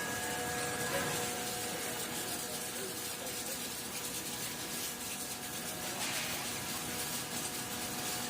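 Flake ice generator running: a steady rush of flowing water with a constant machine hum carrying a few steady tones underneath.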